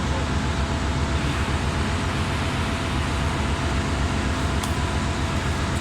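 Steady machinery noise of a ship's engine room: a constant low hum with even tones under a broad hiss, unchanging throughout, with a faint click or two near the end.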